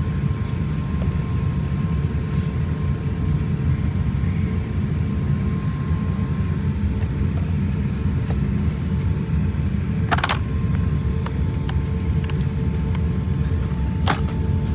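Airbus A350-1000 cabin noise: a steady low rumble from the aircraft with a faint steady whine over it, and two sharp clicks or knocks, about ten and fourteen seconds in.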